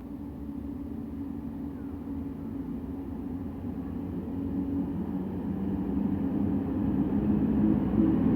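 Passenger train approaching: a steady low rumble with a hum, growing steadily louder.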